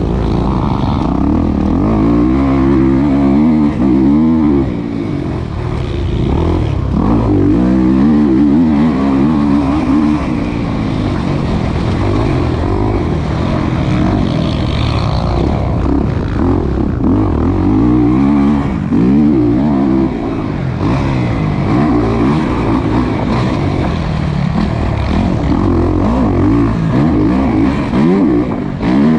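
Kawasaki KX450's single-cylinder four-stroke engine revving up and down over and over as it is ridden hard around a motocross track, the pitch rising and falling every few seconds through the throttle and gear changes.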